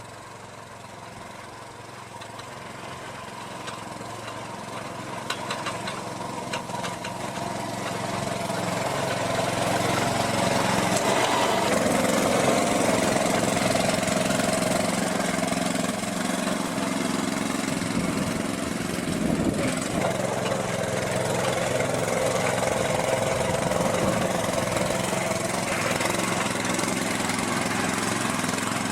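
Small petrol engine of a Muck-Truck powered wheelbarrow running steadily, growing louder over the first ten seconds or so, then holding level.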